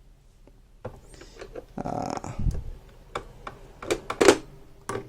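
Scattered clicks and knocks of hard plastic parts being handled on a small plastic sewing machine, with a brief scraping rub about two seconds in and the sharpest click near the end.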